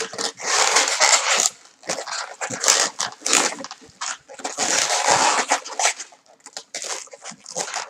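Inflated latex modelling balloons squeaking and rubbing against each other and the hands as they are twisted and handled, in irregular bursts.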